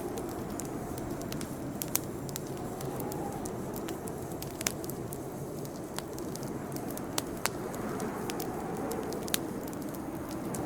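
Campfire burning with a steady low rush of flames and scattered sharp crackles and pops, about one every second or two.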